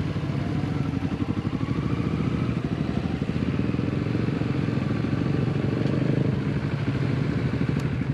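Kawasaki Vulcan 650 motorcycle's parallel-twin engine running at a steady speed, its firing pulses even throughout.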